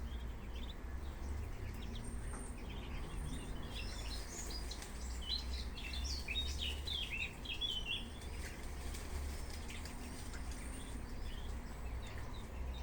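Ducklings peeping: many short high chirps, thickest in the middle, over a steady low rumble.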